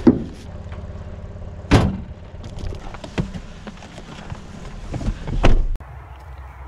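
Motor vehicle engine idling, with three loud thumps. The running sound cuts off abruptly near the end.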